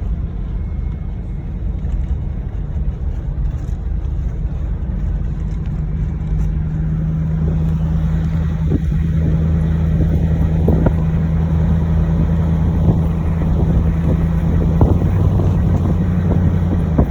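Car driving on a sand beach: the engine drones steadily over a low rumble from the tyres. From about halfway through, scattered short knocks and crackles come in.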